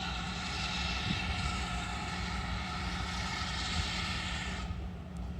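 Steam locomotive letting off steam: a loud hiss that starts suddenly and cuts off after about four and a half seconds, over a steady low rumble.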